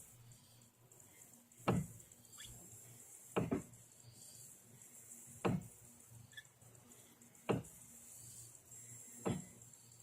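Dull knock from a BMW E90's steering, heard five times at roughly two-second intervals as the steering wheel is turned. It comes each time the wheel is at about 180 degrees, and the owner suspects the steering.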